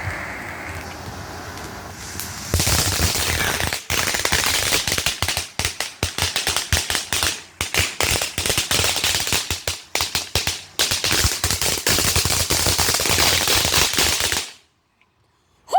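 Tyrannosaurus Rex novelty firework going off: a short steady hiss, then a long rapid run of sharp cracking pops, several a second, lasting about twelve seconds and cutting off abruptly near the end.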